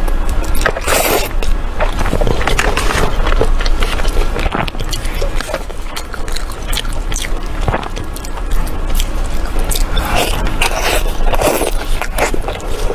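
Close-miked eating: a person biting and chewing food, with many short, sharp crackles and clicks, heaviest about a second in and again near the end.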